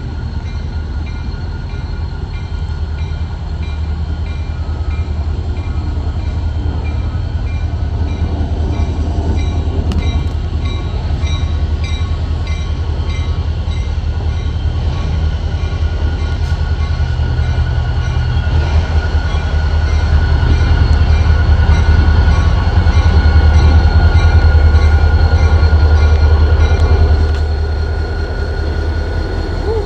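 Diesel-electric locomotives (a Paducah & Louisville GP30 among them) passing close by. The deep engine rumble builds steadily, is loudest about three quarters of the way in, then drops off suddenly near the end as the engines go by, with faint repeating high-pitched tones throughout.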